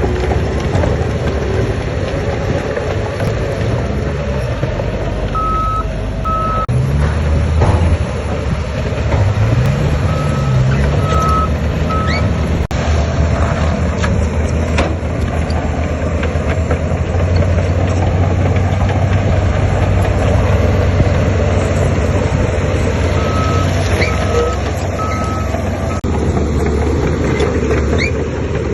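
Diesel engines of heavy earthmoving machinery running with a low drone, revving up and back down about eight to eleven seconds in. A reversing alarm beeps in short sets of two or three, three times over.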